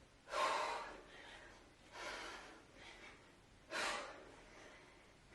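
A woman's heavy breathing during a set of kettlebell swings: three strong, forceful exhales roughly a second and a half apart, with softer breaths in between.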